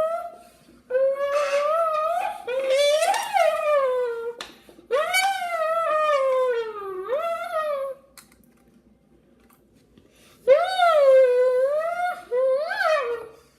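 A child's voice imitating a revving Lamborghini engine: a run of drawn-out vroom notes that swoop up and down in pitch, with a pause of a couple of seconds past the middle.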